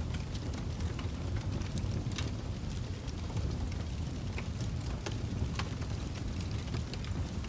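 Wood fire burning in a fireplace: a steady low rumble of flames with scattered sharp crackles and pops, a few of them louder than the rest.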